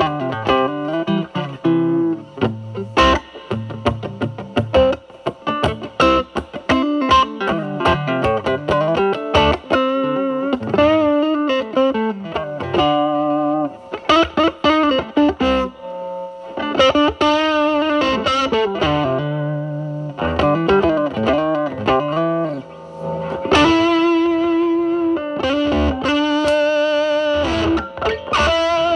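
A Telecaster electric guitar played through a Mosrite Fuzzrite clone fuzz pedal set to 5, into the drive channel of a Marshall Valvestate amp. It plays a lead line of picked single notes, with some notes bent and some held with vibrato.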